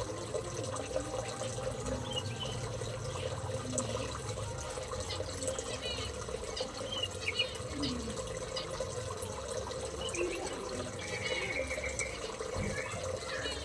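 Small aviary birds chirping in short, repeated high calls, with one longer call near the end, over a steady background of running water and a low hum.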